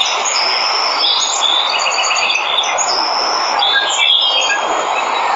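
Steady rushing of a waterfall, with many jungle birds chirping and calling over it in short, high notes.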